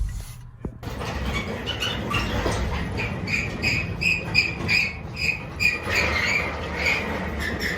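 The truck's V8 engine shuts off at the very start. It is followed by a steady run of short, high chirps or squeaks, about two or three a second.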